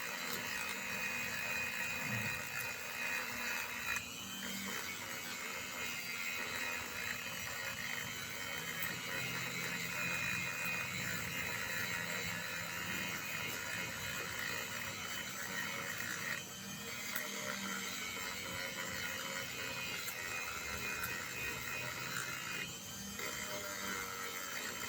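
Dremel-type rotary tool with a soft sanding attachment, running steadily with a high whine as it wet-sands rust off a metal shock shaft. The tone briefly drops three times, about 4, 16 and 23 seconds in.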